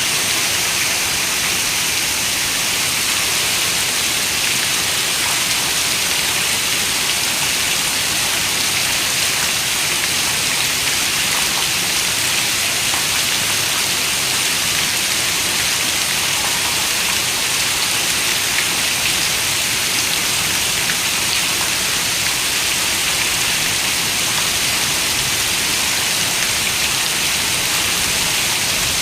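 Steady rain falling: an even hiss of many raindrops with no breaks.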